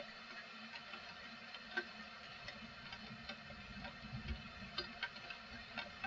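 Rain falling steadily, with scattered drops ticking irregularly against a hard surface.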